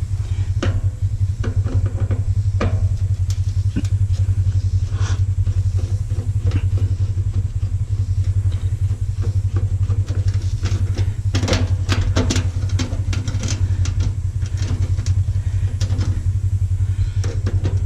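Screwdriver and metal parts clicking and scraping on a stainless steel Bunn-O-Matic coffee maker as a stubborn screw is worked, over a loud steady low drone. The clicks come irregularly, thickest about two thirds of the way through.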